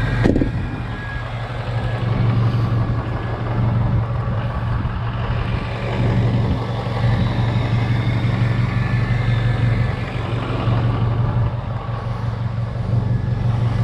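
Truck engine idling steadily just after a cold start, with a brief thump right at the start.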